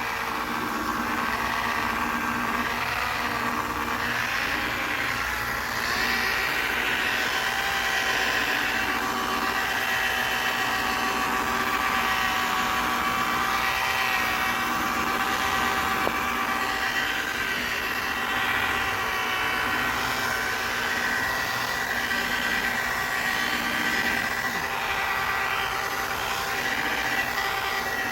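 Power buffer running at low speed with a steady motor whine, polishing a plastic headlight lens with compound.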